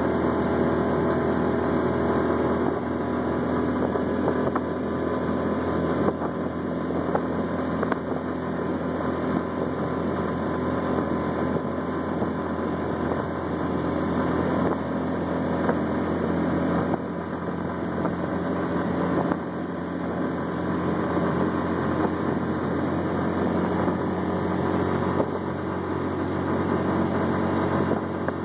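Small engine of an open three-wheeled tour car running steadily at cruising speed, a constant drone with road and wind noise.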